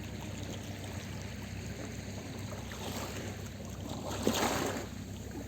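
Small sea waves washing on a beach, with one louder wave splashing in about four seconds in, over a steady low hum.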